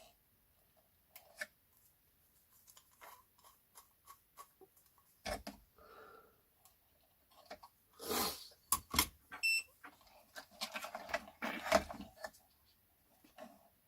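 Irregular clicks, knocks and rattles of plastic radio parts and tools being handled during disassembly, busiest and loudest in the latter half, with a brief high squeak about nine and a half seconds in.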